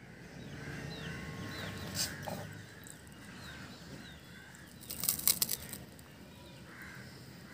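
Outdoor ambience with small birds chirping again and again, short falling chirps. There is a brief click about two seconds in, and a louder burst of rustling clatter about five seconds in.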